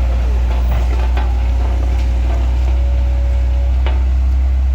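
Heavy vehicle engine running steadily with a deep drone, with a few light knocks over it.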